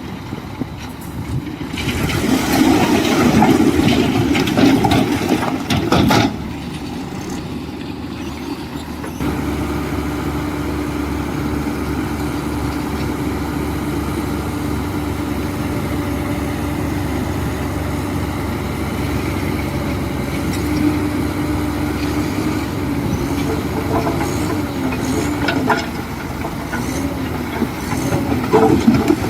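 Heavy diesel construction machinery at work: a louder stretch of clanking and grinding in the first few seconds, then a steady engine drone.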